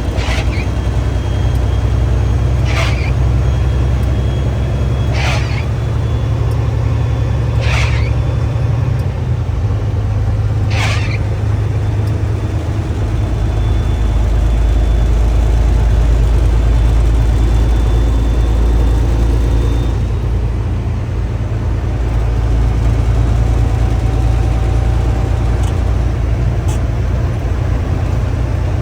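Vehicle's low, steady road and engine rumble while driving. A short swish comes about every two and a half seconds for the first eleven seconds or so, then stops.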